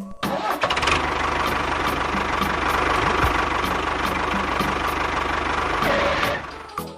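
A small engine running steadily at an even speed, with a fast regular low pulsing under a hissy whine. It starts just after the beginning and cuts out about a second before the end.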